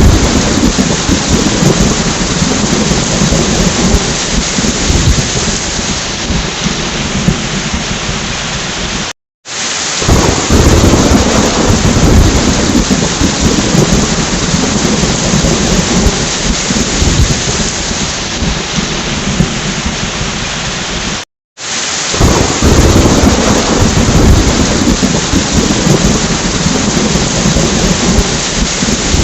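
Heavy rain with a low rolling thunder rumble, in stretches that start louder and ease off. The sound cuts out for an instant twice, about nine and twenty-one seconds in, then resumes.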